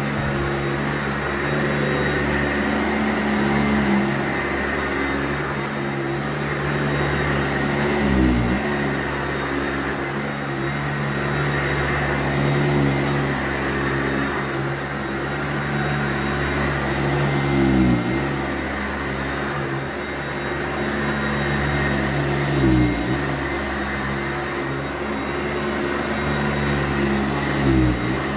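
Sanitaire SC684G upright vacuum cleaner running on carpet, a steady motor hum. Its pitch dips briefly and recovers four times, several seconds apart.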